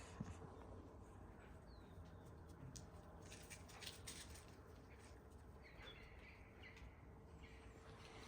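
Near silence: faint outdoor ambience with scattered light ticks and a faint chirp about six seconds in.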